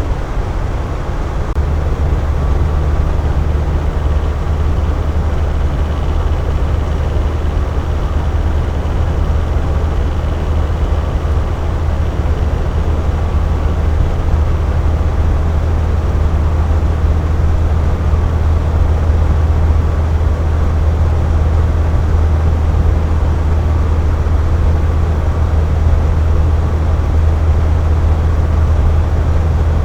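Air conditioner running steadily: a deep, even hum with a broad whooshing hiss above it.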